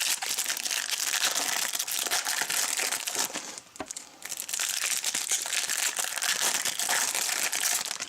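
Trading card pack wrappers being crinkled and torn open, a dense crackling rustle that eases briefly midway.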